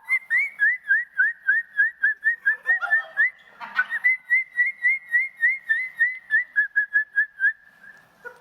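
A child whistling an imitation of a murai's song: a quick, even run of short rising whistled notes, about four a second, with a brief break around three and a half seconds in, stopping shortly before the end.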